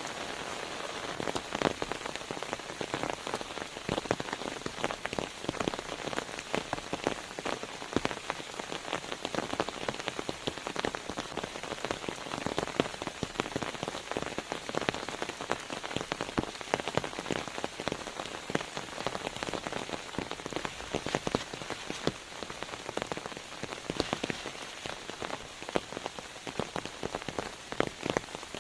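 Steady rain with many drops striking a surface as dense, irregular sharp ticks.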